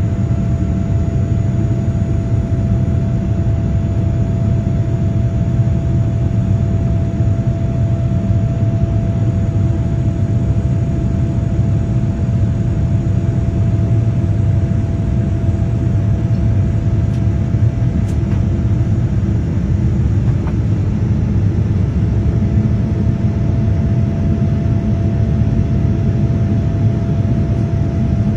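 Steady low rumble of a Boeing 787-10's engines and airflow inside the passenger cabin, with one constant whine above it; the level and pitch do not change.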